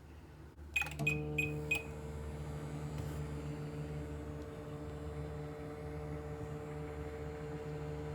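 Microwave oven being started: a click, then four quick keypad beeps, then the oven running with a steady hum.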